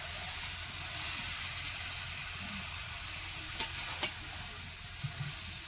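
Spice paste (masala) sizzling steadily in hot oil in a pan, fried to the stage where the oil starts to separate. Two sharp utensil clicks come a little after halfway.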